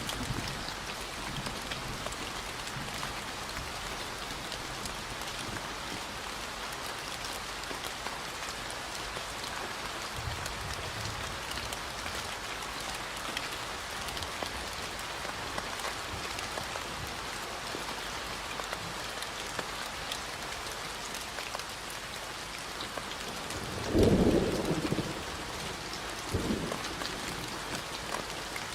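Steady rain falling, with a short low rumble of thunder near the end that is the loudest moment.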